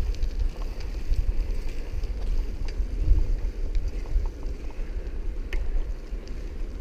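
Wind buffeting a helmet camera's microphone during a fast bicycle ride: a steady low rumble with scattered small clicks and rattles.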